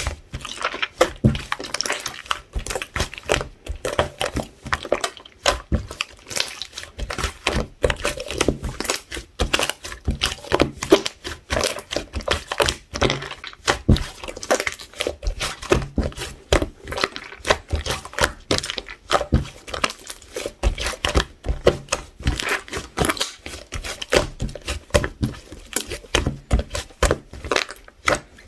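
Hands squishing and pressing a soft pink clay slime mixed with beads, giving a dense, irregular run of crackling clicks and pops.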